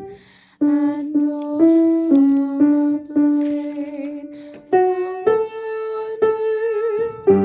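Piano playing a slow line of single notes in a middle register, starting after a brief pause, with each note struck and held in turn.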